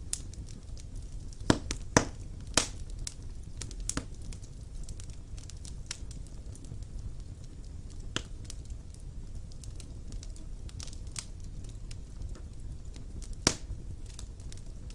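Wood fire burning in a fireplace: a steady low rumble of flames with irregular sharp crackles and pops, the loudest pops about a second and a half in, two seconds in, two and a half seconds in, and near the end.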